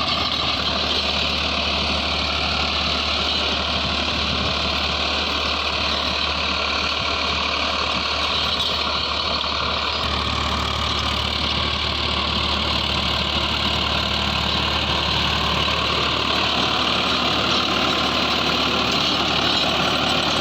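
Farmtrac 60 PowerMaxx T20 tractor engine running steadily under heavy load while it drives an 8-foot rotavator at full working depth. The revs hold even throughout.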